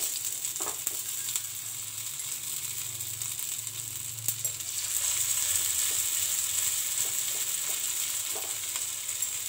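Bamboo-shoot fritter batter sizzling in hot oil on a flat iron tawa: a steady high hiss of shallow frying as fresh patties are pressed onto the pan.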